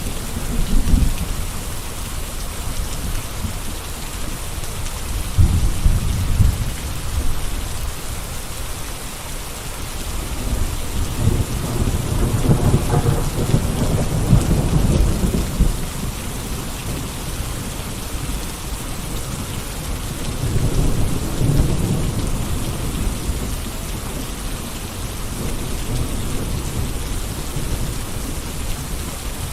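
Steady rain falling, a continuous hiss of drops, with a low rumble underneath that swells and fades several times and is strongest around the middle.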